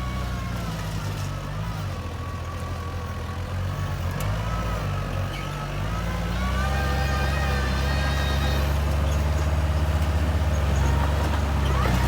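Komatsu bulldozer's diesel engine working under load, with a whine above it. About six seconds in the engine picks up and gets louder.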